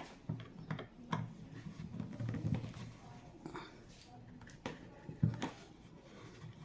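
Scattered light knocks and clicks, about one a second, from handling tools and pieces of wood while working on a door jamb.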